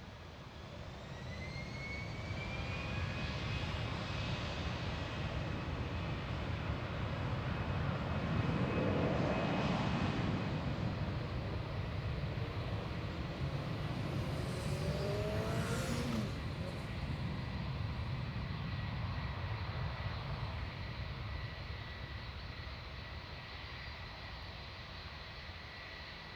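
Boeing 757-300 jet engines (Rolls-Royce RB211 turbofans) running as the aircraft passes: the noise swells over the first few seconds with a high whine rising then holding steady, peaks about nine seconds in, and slowly eases off.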